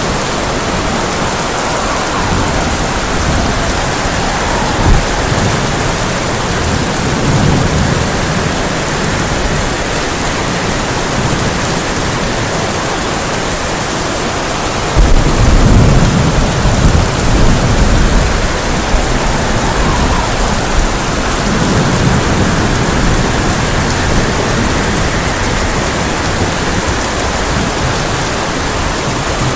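Heavy rain drumming steadily on a tin roof during a thunderstorm. About halfway through, a loud thunderclap breaks in suddenly and rolls for a few seconds, with softer rumbles of thunder before and after it.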